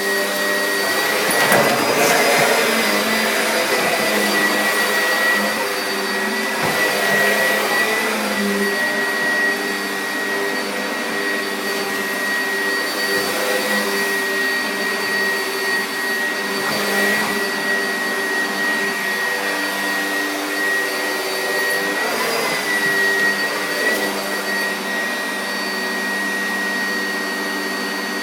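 Household vacuum cleaner running steadily with a high-pitched whine over its motor hum, swelling briefly now and then.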